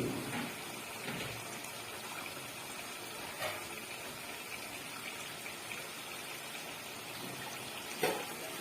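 Water running steadily, as water is added for cooking the masala, with a few light knocks of kitchen utensils.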